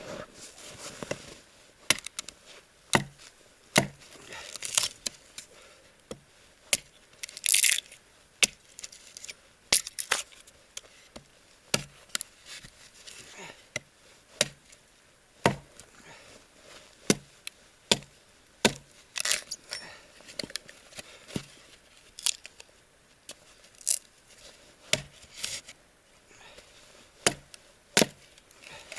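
Wood being chopped into kindling: sharp chopping knocks at irregular intervals, about one a second, with a few longer splintering scrapes.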